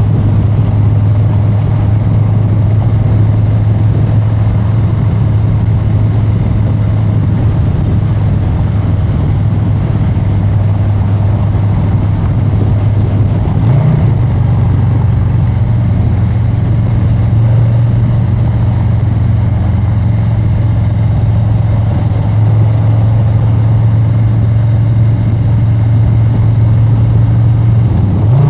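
Harley-Davidson Street Bob 114's Milwaukee-Eight 114 V-twin running through a new exhaust at a steady cruising speed, with a short change in the engine note about halfway through.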